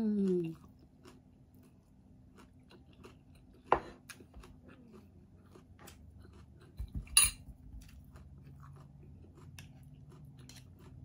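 Close-miked chewing of a mouthful of shredded mango, with faint wet crunching and small mouth clicks. It opens with a short falling "mmm", and there are two sharp clinks of utensils, about four and about seven seconds in.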